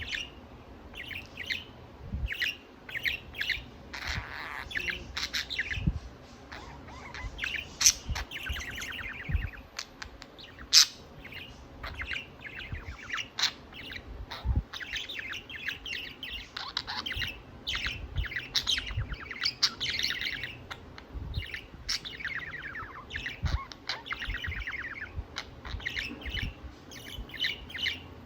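Budgerigar warbling: a run of rapid chirps, chatter and trills with scattered sharp clicks.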